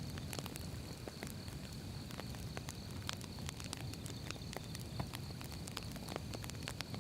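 Wood fire burning: irregular sharp crackles and pops of firewood over a low steady rumble.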